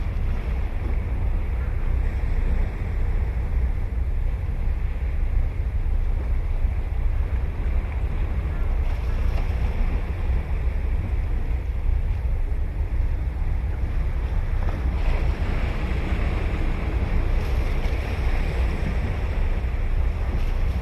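Ocean surf breaking and washing up the beach, a steady hiss with one wave swelling louder in the last third. Heavy wind rumble on the microphone underlies it.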